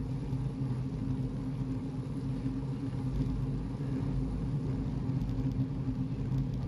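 Motor vehicle engine running steadily, a constant low hum with road noise, heard from on board the moving vehicle.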